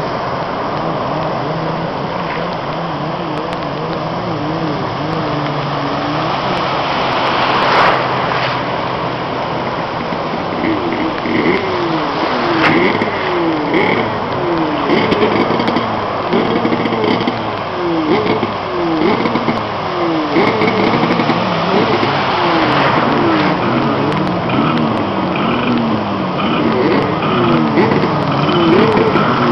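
Jet ski engine running, steady for the first several seconds, then revving up and down again and again from about ten seconds in. A brief loud rush of noise comes about eight seconds in.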